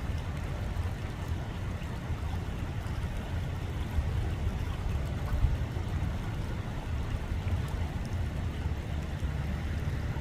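Wind rumbling on the microphone over a steady hiss of running water.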